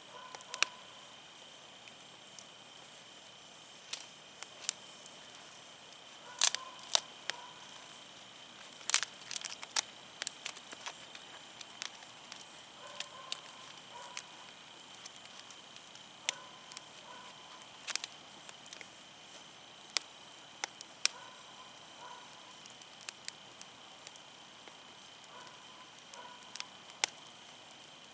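Wood fire crackling, with irregular sharp pops and snaps of burning firewood, a few of them loud.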